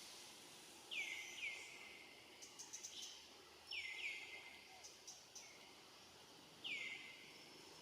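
A bird calling outdoors: five short, high chirps, each sweeping down in pitch, the first four in two quick pairs and the last on its own near the end, with faint ticking sounds between them.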